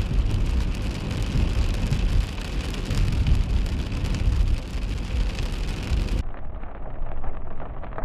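Rain and driving noise heard inside a car through a dashcam microphone: a steady hiss over a low rumble. About six seconds in, the sound abruptly turns duller.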